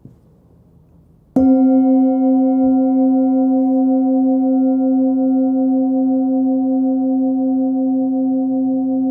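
Nepalese singing bowl, 16.3 cm across and tuned to about 262 Hz (C), struck once about a second and a half in. It rings on with a steady low fundamental and several higher overtones, one of the overtones pulsing gently.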